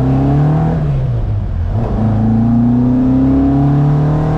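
Ford Mk1 Escort's four-cylinder engine accelerating hard under load, its pitch rising, dropping at a gear change about a second and a half in, then climbing steadily again until another shift near the end.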